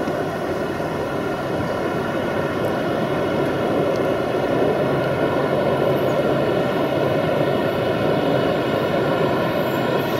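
Approaching freight train hauled by an electric locomotive: a steady rumble of wheels on rail, with a whine of many evenly spaced tones above it, slowly growing louder as the train nears.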